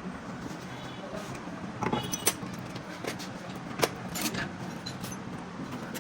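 A handful of sharp metal clinks of tools and parts being handled, about four over a few seconds. Under them runs a steady low machine hum.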